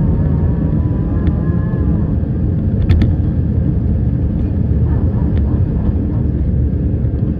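Airbus A319 jet engines and airframe during takeoff, a loud steady low rumble heard from inside the cabin, with a faint high whine that fades about two seconds in. A sharp click comes about three seconds in.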